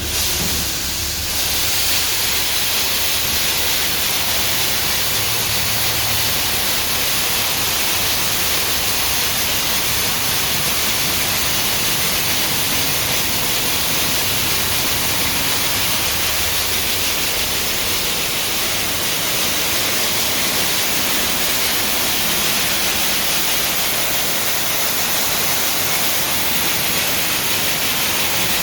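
Spray nozzles of a car wash machine blasting water onto a car in a steady, loud hiss that starts abruptly.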